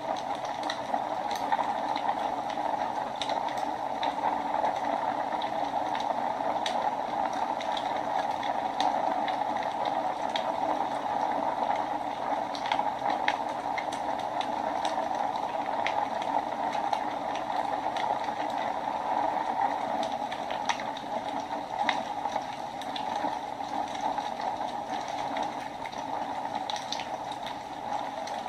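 Wood fire burning in a fireplace: a steady hiss with many irregular sharp crackles and pops.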